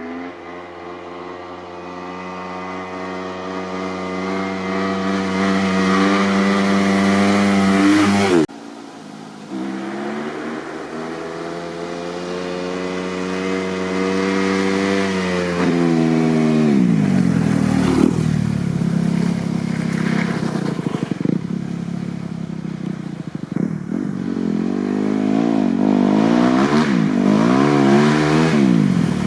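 Kawasaki KX250F's single-cylinder four-stroke engine through a full FMF 4.1 RCT exhaust. It holds a steady note that grows louder, cuts off abruptly about eight seconds in, runs steady again, drops in pitch as the throttle comes off, then revs up and down several times in quick succession near the end.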